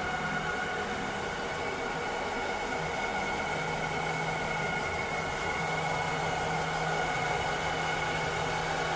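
Cleaning robot's motors running with a steady whir and a high-pitched whine. A low hum fades out about half a second in and returns a few seconds later.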